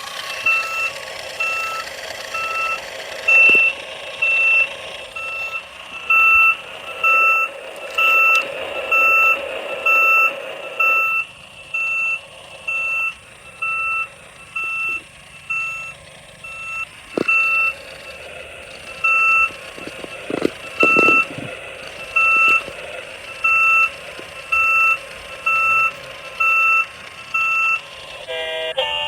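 A toy construction vehicle's electronic reversing beeper, beeping steadily about three times every two seconds. A hum runs under it for the first ten seconds or so, and there are a few clicks later on.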